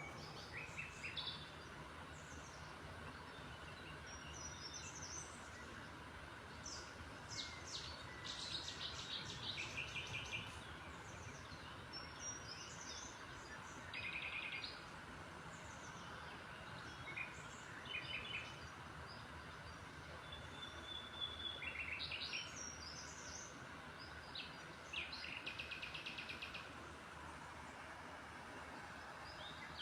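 Small birds chirping on and off, with several short, rapid trills, over a steady background hum of noise.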